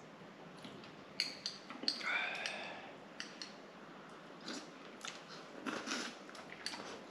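Someone eating turkey neck soup with rice: scattered wet clicks and smacks of chewing and sucking meat off the neck bones, with a short slurp about two seconds in.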